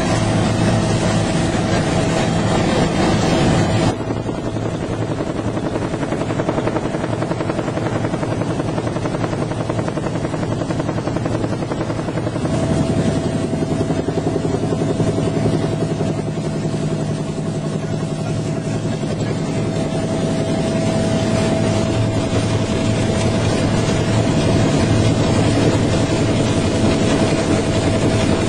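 Bell UH-1H Huey helicopter's turbine engine and rotor running steadily, with a steady high whine over the low sound. About four seconds in the hiss drops away abruptly, and from about twelve seconds the whine comes back stronger.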